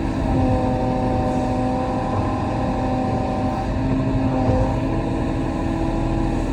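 Kobelco SK35 compact excavator's diesel engine running under load, with hydraulic whine tones that come and go and shift in pitch as the machine works.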